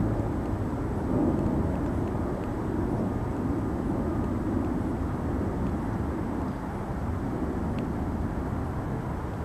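Distant Boeing 767 jet airliner passing overhead: a steady low rumble of jet engine noise heard from the ground.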